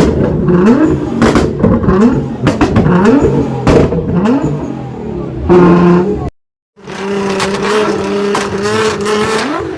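Car engine revved hard in a quick series of rising runs, each climbing and dropping back. After a brief dropout it is held at a steady high note.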